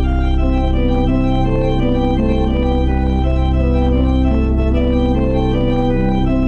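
Organ playing a postlude at the close of the service: steady held bass notes under a moving line of shorter notes that change several times a second.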